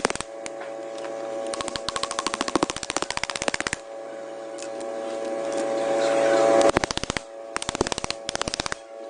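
Pneumatic impact tool hammering in several rapid bursts while taking apart a propeller shaft universal joint, with a steady whine from the tool between bursts that grows louder before the burst about seven seconds in.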